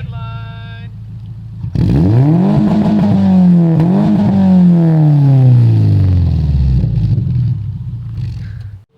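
2004 Subaru Forester's 2.5-litre flat-four engine, breathing through a Tsudo catback exhaust, revving hard. The revs climb, dip briefly as if at a gear change, climb again, then fall away slowly over a few seconds. A short, steady beep-like tone sounds at the very start.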